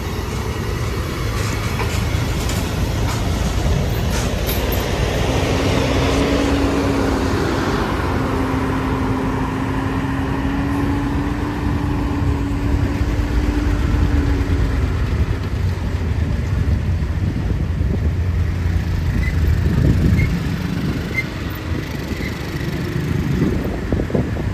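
Heavy road vehicle driving, a steady low engine and road rumble with hiss. A single steady drone is held for about ten seconds in the middle.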